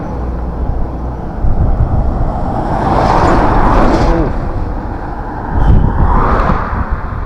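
Car driving along a road: steady engine and road noise, with the noise swelling twice, about three seconds in and again near the end.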